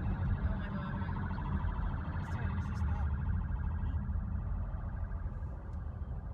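Police siren warbling, heard from inside a moving car over the steady low rumble of engine and road noise; the siren fades out about four seconds in.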